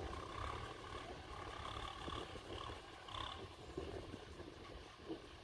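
Tractor diesel engine running, heard at a distance: a low rumble with a wavering drone that swells and fades every second or so.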